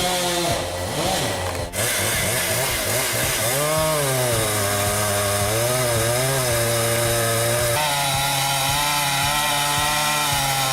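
Husqvarna 395 XP two-stroke chainsaw running hard in a cut through a big pine. Its pitch dips and recovers a few times in the first half as the chain works through the wood, then holds steadier.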